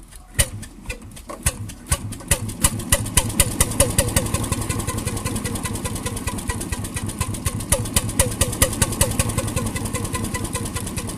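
1921 RSM 3½ HP hot-bulb marine engine starting up: a sharp knock, then firing strokes that come slowly and quicken over about four seconds into a steady, rapid, regular knocking run.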